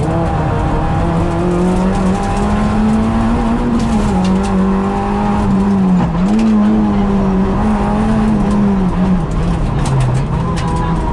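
Peugeot 106 rally car's four-cylinder engine heard from inside the cabin, running hard at high revs. Its pitch drops briefly and climbs back three times, about four, six and nine seconds in.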